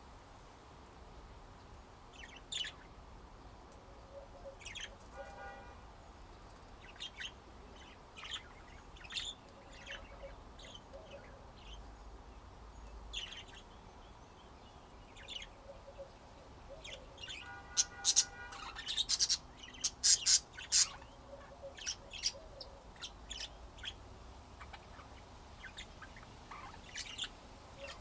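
Pet budgerigars chirping in short scattered calls, with a couple of buzzy notes; the chirping is busiest and loudest about two-thirds of the way through.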